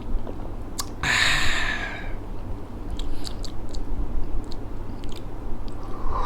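A person chewing the aloe vera pieces from a grape juice drink, with a short noisy burst about a second in, then small wet clicks of chewing.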